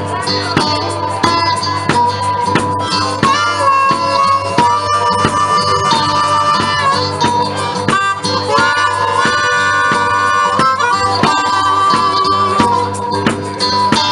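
Blues harmonica playing an instrumental break of long held notes with slides in pitch, over a steady guitar rhythm.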